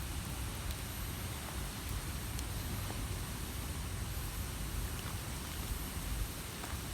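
Wood campfire burning: a steady hiss over a low rumble, with a few faint crackling pops.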